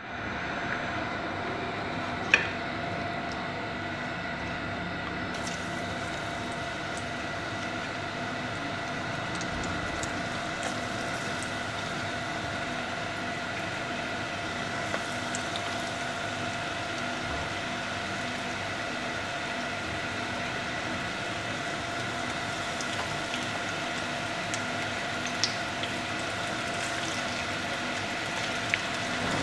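Breaded chicken fingers frying in a pan of hot oil: a steady sizzle with scattered small pops, over a steady hum. There is one sharp knock about two seconds in.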